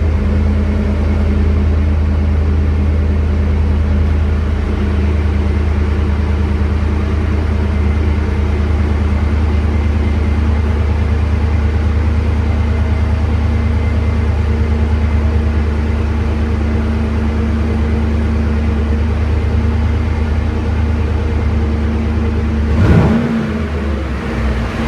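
5.3-litre V8 of a GMC Yukon idling steadily through a Black Widow Venom 250 aftermarket muffler, with the factory resonator and tip still fitted, just after a cold start. Near the end the engine is revved once briefly, rising and falling in pitch.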